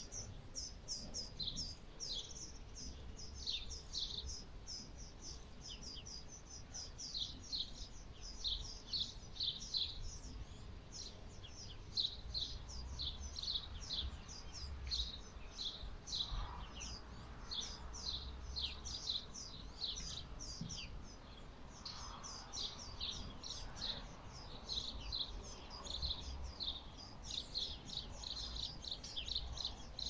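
Small birds chirping continuously in a busy chorus: rapid short high notes, many of them falling in pitch, overlapping one another. A low rumble comes and goes beneath them.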